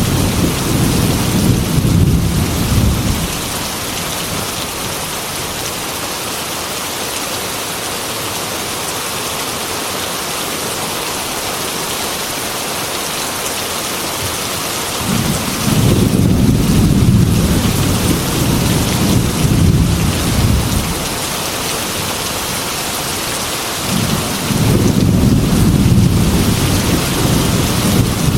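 Heavy rain falling steadily on a metal roof, with thunder rolling in three long rumbles: one fading out about three seconds in, another from about halfway through, and a third near the end.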